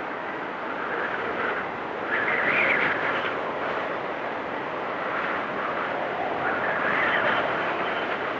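Blizzard wind blowing in gusts, a steady rush that swells louder about two seconds in and again near the end.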